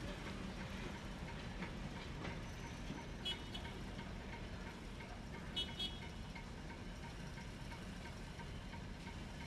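Diesel locomotive, an ex-Duluth, Missabe & Iron Range SD-M rebuilt from an SD9, running with a faint, steady low rumble. Brief high chirps come about three seconds in and again near six seconds.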